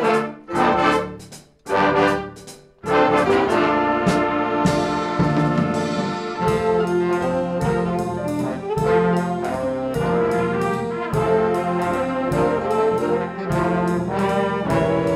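A school band led by brass, trumpets and trombones, plays several short, loud chords with pauses between them, then goes into continuous playing from about three seconds in.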